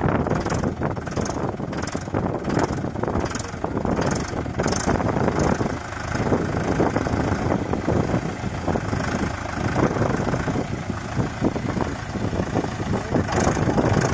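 Mahindra Yuvo tractor's diesel engine running steadily, with a regular high ticking of about two a second over the first few seconds that returns near the end.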